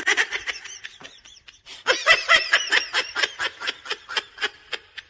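A person laughing in quick repeated bursts, with a brief lull about a second in.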